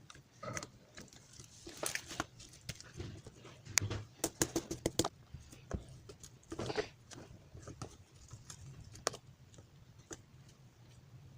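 Clear slime mixed with colourful pearl beads being kneaded and squeezed by hand: irregular sticky squishing and crackling clicks, with a quick run of sharp pops about four to five seconds in.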